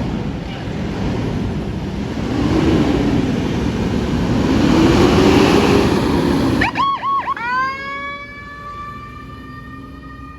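An emergency vehicle passes close with its siren on, over loud engine and road noise, with a slow rise and fall of the siren under the noise. About seven seconds in, a quick run of warbling chirps gives way to a siren tone that rises, then holds steady and quieter.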